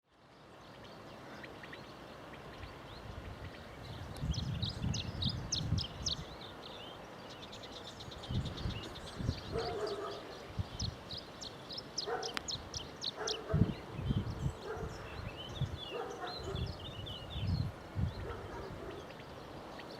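A dog barking now and then, with small birds chirping quickly and repeatedly over it.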